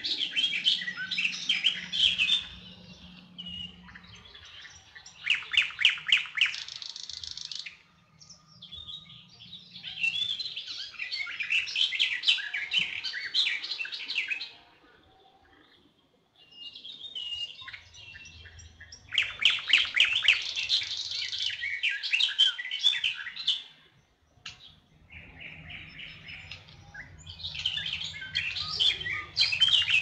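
Songbirds singing in varied phrases of chirps and fast trills, each a few seconds long, broken by short pauses.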